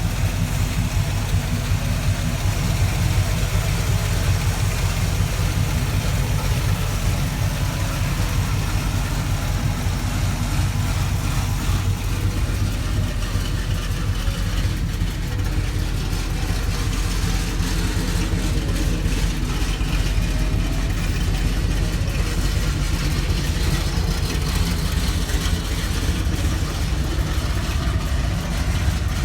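Small-block 400 V8 in a GMC C1500 pickup, idling steadily. The owner says it sounds pretty healthy.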